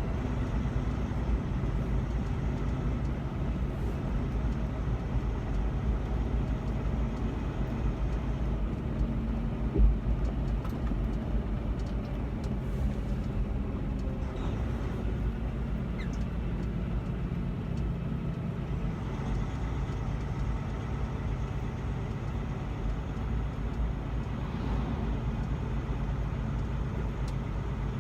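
Semi-truck engine and road noise heard from inside the cab while cruising, a steady drone with one brief thump about ten seconds in.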